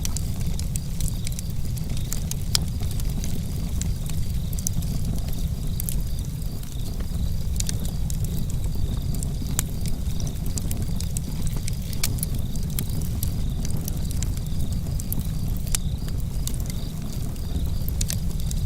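Campfire crackling: frequent sharp, irregular pops and snaps over a steady low rumble.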